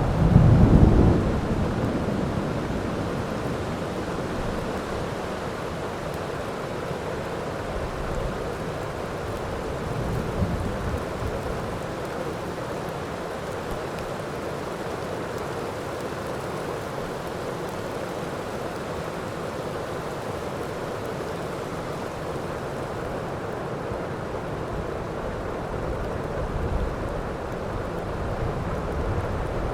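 Steady heavy rain with thunder: a loud rumble in the first couple of seconds, then fainter rolls about ten seconds in and again near the end.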